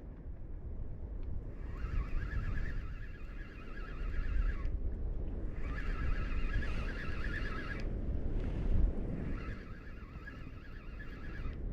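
A fishing reel being cranked in spells of two to three seconds with short pauses, each spell a fluttering gear whine, as a soft plastic lure is worked back. A low rumble of wind and surf runs underneath.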